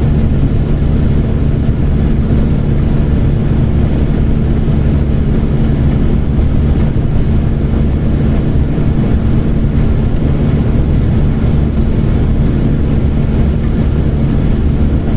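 Heavy truck's diesel engine and road noise heard from the cab while cruising at steady speed: a loud, steady low drone.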